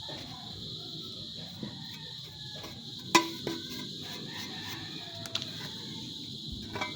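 Clicks and a sharp knock about three seconds in as a desktop PC's casing is handled and fitted back on, with a rooster crowing in the background.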